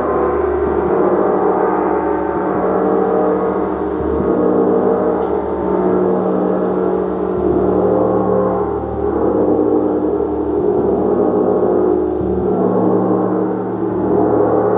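Gong played continuously: a dense, sustained wash of many overlapping ringing tones that swells and eases in slow waves about every two seconds.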